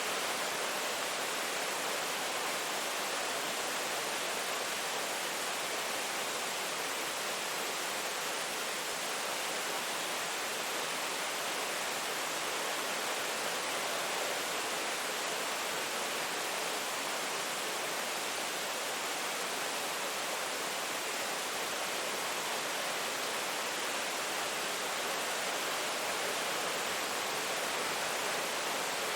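Steady rain falling, an even hiss with no separate drops, thunder or changes.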